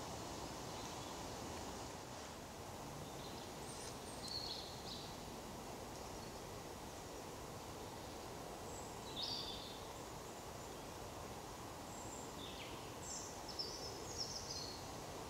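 Steady outdoor background hiss with a few short, high bird calls: one about four seconds in, another about nine seconds in, and a cluster of several near the end.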